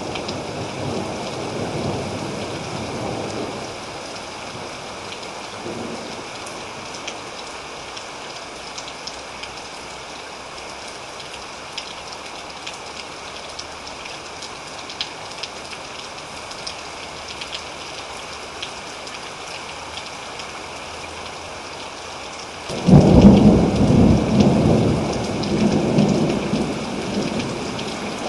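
Steady rainfall with a thunderstorm: low thunder fades out in the first few seconds, then a loud thunderclap breaks about three-quarters of the way through and rolls on, slowly dying away, over the hiss of the rain.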